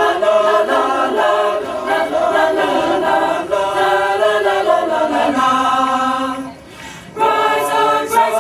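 Choir singing a lively song, with held notes and a short break in the singing about two-thirds of the way through.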